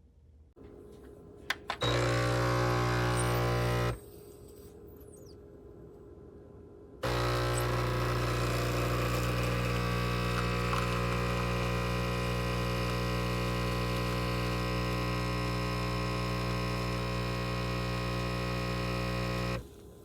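Compact 20-bar espresso machine's vibratory pump buzzing steadily as it pushes water through. A couple of clicks come first, then the pump runs for about two seconds, stops, and starts again for a longer run of about twelve seconds before cutting off.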